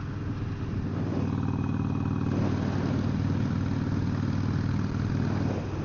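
Harley-Davidson Sportster 883's air-cooled V-twin engine running steadily at low speed. Its note fills out about a second in and eases back just before the end.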